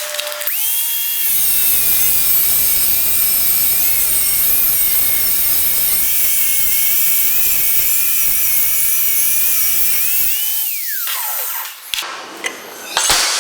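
Angle grinder motor switched on, running with a high whine that wavers in pitch for about ten seconds, then switched off and winding down with a falling whine. A few sharp knocks follow near the end.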